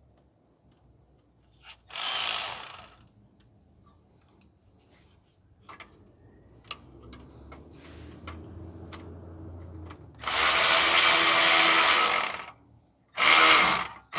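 Power tool run in three short bursts, the middle one the longest, tightening the screw of a band clamp around a loose exhaust heat shield. Small metal clicks fall between the bursts.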